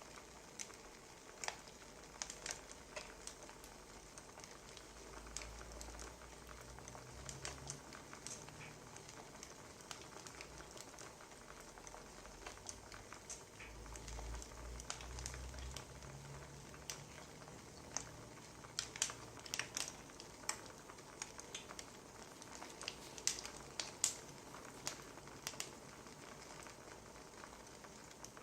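Wood fire crackling: a soft steady hiss with irregular sharp pops and snaps, thicker in the second half, with a faint low rumble twice.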